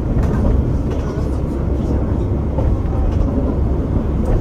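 Steady low rumble inside a KiHa 47 diesel railcar running along the track, engine and wheel noise together, with a few faint clicks.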